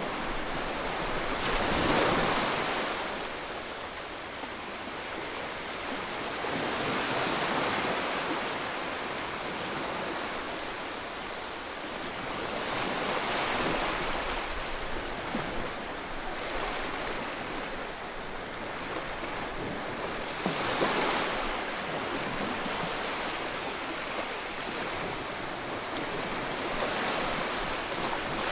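Ocean surf: waves breaking and washing in over a steady rush of water, with a louder surge every five to seven seconds.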